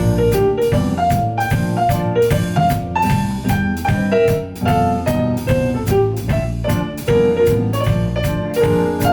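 Instrumental jazz played live by a small band: a melody and piano chords over a drum kit keeping a steady beat.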